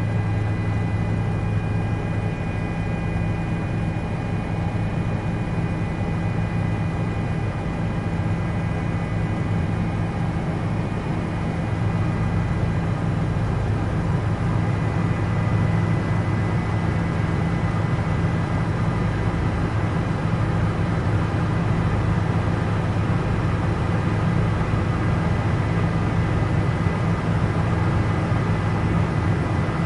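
Helicopter in flight heard from inside the cabin: a steady low drone with thin, steady high whining tones above it. It gets slightly louder a little before halfway through.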